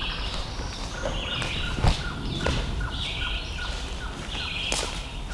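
Songbirds singing in hardwood forest: a buzzy high trill repeated about every second and a half, with rows of short chips between. A few sharp knocks stand out, about two seconds in and near the end.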